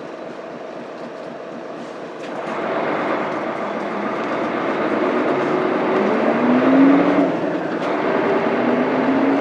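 Mitsubishi Fuso Aerostar city bus's 6M70 straight-six diesel pulling away from a stop: it idles, then the engine note climbs as it accelerates, with a brief drop about seven seconds in as the five-speed manual gearbox is shifted up, and climbs again.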